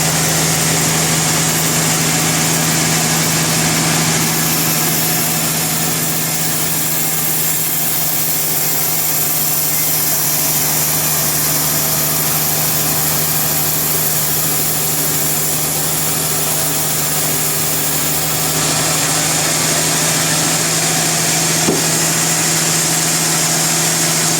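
Sawmill machinery running steadily: a constant low mechanical hum with an even hiss above it, unchanging throughout.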